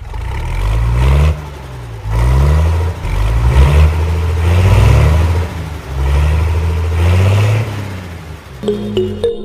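Vehicle engine revving again and again, each rev rising in pitch. Music begins near the end.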